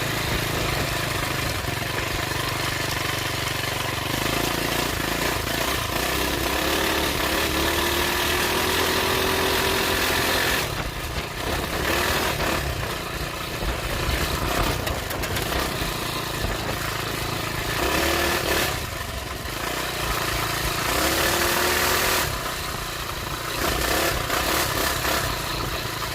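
Coleman CT200U-EX minibike's single-cylinder four-stroke engine running while being ridden, its pitch rising and falling several times as the throttle is opened and eased off.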